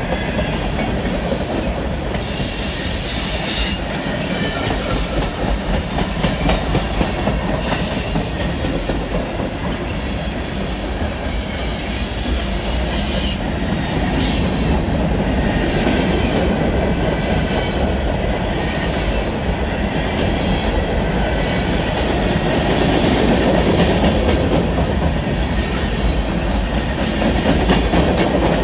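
Freight train rolling past with a steady rumble of wheels on rail, and a high wheel squeal between about two and six seconds in.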